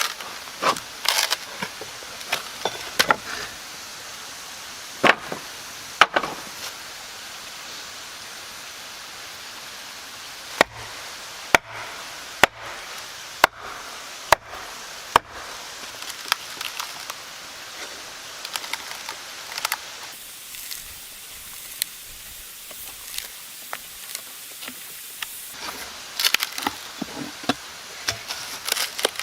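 Sharp tool blows on wood: six loud strikes about a second apart midway, with scattered lighter knocks and handling clatter before and after.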